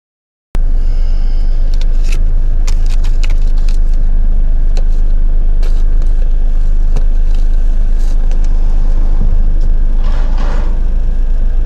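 A loud, steady low rumble that starts suddenly about half a second in, with scattered clicks over it.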